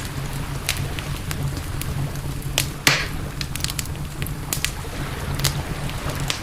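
Campfire crackling: scattered sharp pops from the burning wood, one louder pop about three seconds in, over a steady low rumble.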